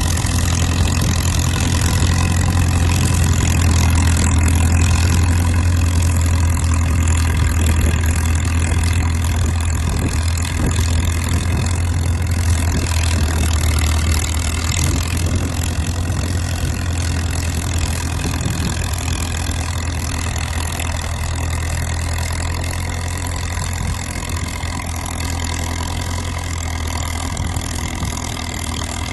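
Caterpillar dozer's diesel engine running steadily with a deep, even hum, growing slightly quieter over the last several seconds.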